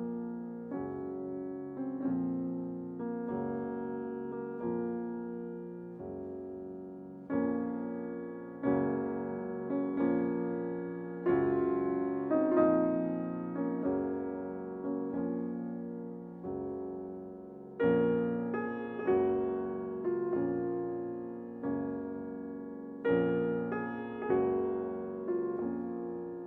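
Slow, gentle piano music: soft chords struck about once every second or two, each left to ring and fade.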